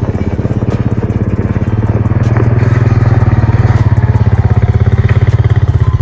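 Vehicle engine running close by with a steady, even pulse, growing a little louder about two seconds in.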